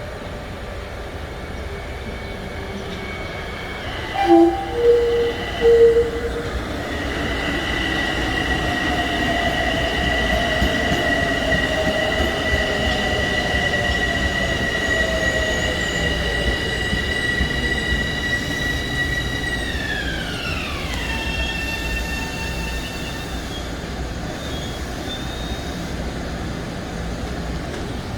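Bombardier M7 electric multiple-unit train arriving, with three short horn blasts about four seconds in. Then a steady high electric whine from its traction drive, with a lower tone slowly falling, and the whine glides down in pitch as the train slows to a stop.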